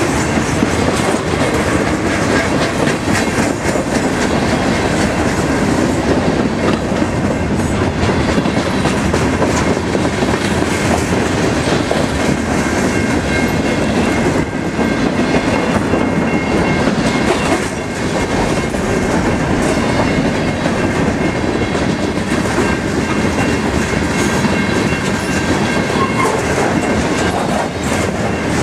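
Norfolk Southern freight train's boxcars and covered hoppers rolling past at close range: a loud, steady rumble of steel wheels on rail with a running clickety-clack as the wheels cross rail joints.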